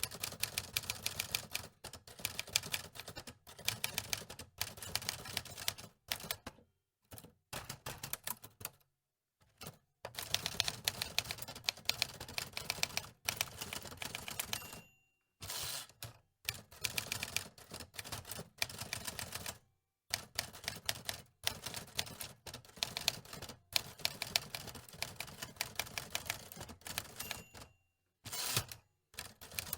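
Antique mechanical typewriter keys clacking in quick runs of typing, broken by short pauses.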